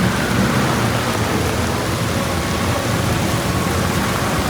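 Heavy rain falling steadily, with a low rumble from strong wind buffeting the microphone.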